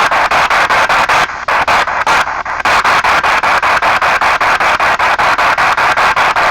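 P-SB7 spirit box sweeping through radio stations: a steady rush of radio static chopped into short slices about five times a second, with a brief break a little over a second in.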